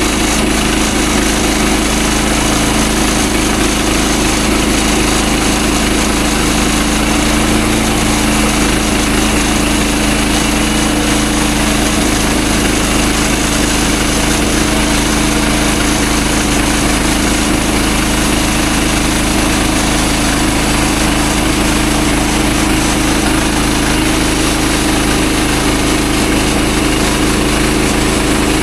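Gasoline engine of a manual band sawmill running steadily under load while the blade cuts through a wide hardwood log.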